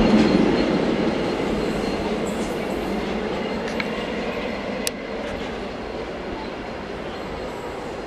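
A freight train of enclosed car-carrier wagons rolling away on the rails: a steady rumble of wheels that slowly fades, with a sharp click about five seconds in.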